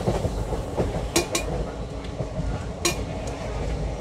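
Moving train running with a steady low rumble, broken by sharp metallic clanks: two in quick succession just after a second in, and another near three seconds.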